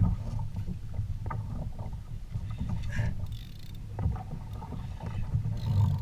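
Knocks and thumps on a kayak hull, a sharp one at the start and a louder run near the end, over a steady low rumble of water and wind on the microphone.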